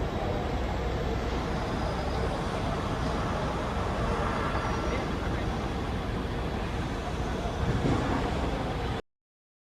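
Steady rumbling noise of a moving vehicle, which cuts off suddenly near the end.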